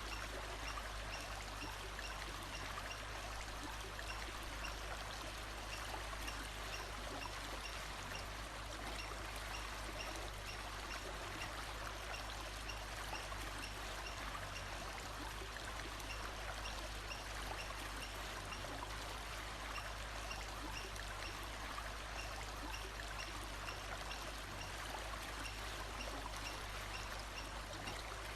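Steady rushing of a flowing stream. Faint short high notes repeat at an even pace above it.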